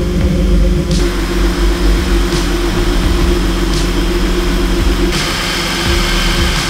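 BMW M52 straight-six engine idling steadily, run to bring a freshly filled cooling system up to temperature so the coolant circulates. The sound shifts abruptly about a second in and again about five seconds in, as if heard from different spots around the car.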